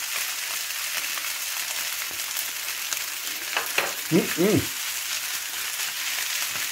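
Fried rice sizzling steadily in a non-stick wok on a gas hob while a wooden spatula stirs it. A few light utensil taps come a little past three seconds in, and a short two-part pitched sound follows about four seconds in.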